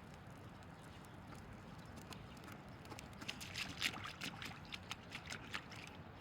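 Faint outdoor background with a run of light, irregular clicks and crunches from about three seconds in until near the end.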